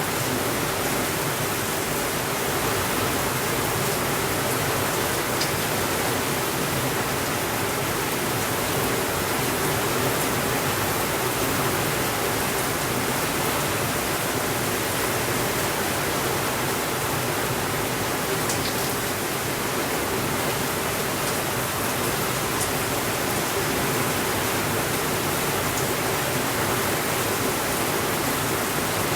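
Steady rainfall, an even, unbroken hiss, with a few faint high clicks now and then.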